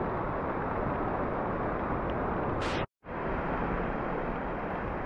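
A steady rushing hiss of outdoor noise, broken by a short dead gap about three seconds in where two clips are joined, then picking up again.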